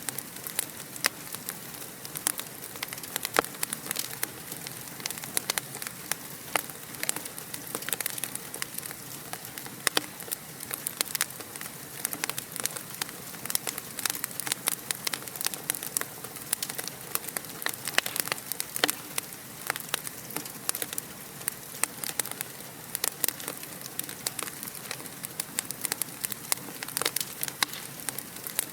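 Wood fire crackling: a steady hiss with frequent sharp pops and snaps scattered throughout.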